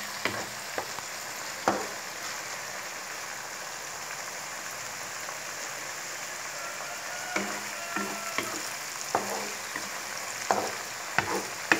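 Diced tomato, onion, garlic and pepper sautéing in oil in a wok, a steady sizzle. A wooden spatula scrapes and taps against the pan a few times near the start, pauses for a few seconds, then stirs in a quicker run of strokes over the second half.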